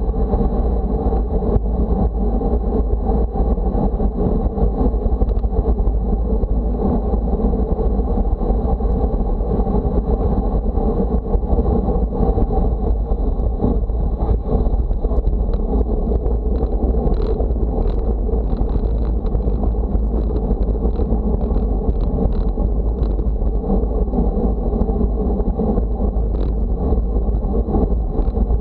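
Steady wind buffeting the microphone with a low rumble of motion noise, and a few light clicks in the second half.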